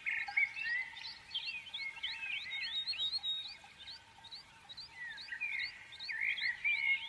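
Several small songbirds chirping and twittering together: a busy, overlapping stream of short, quick rising and falling chirps.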